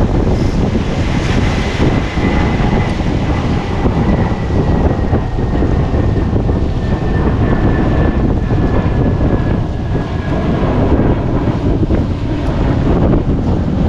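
Strong wind buffeting the microphone, a constant low rumble, with a faint high tone sliding slowly down in pitch over about ten seconds.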